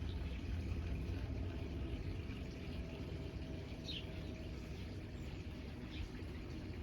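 Electric motor and gearing of a 3D-printed garden-railway Quarry Hunslet model locomotive running, a faint steady whine over a low rumble. A bird chirps briefly about four seconds in.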